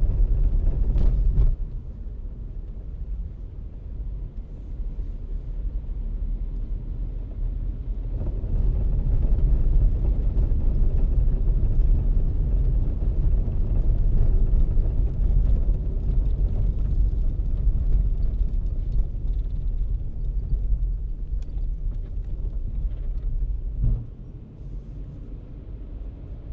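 Car on the move: a steady low rumble of engine and tyre noise on the road. It drops in level about a second and a half in and again near the end.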